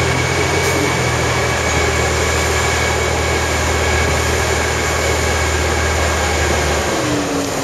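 Diesel railcar running steadily on a climbing grade, heard from inside the carriage: a low engine drone over the constant rush of wheels on rail. Near the end the engine drone drops away, leaving the wheel and rail noise.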